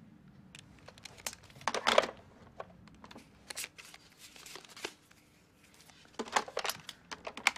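Paper rustling and crinkling, with scattered small clicks and knocks from handling. The loudest cluster comes about two seconds in and another near the end.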